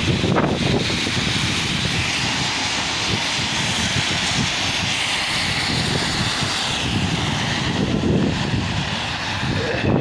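Heavy rain pouring down in a steady, dense hiss, with a low rumble underneath.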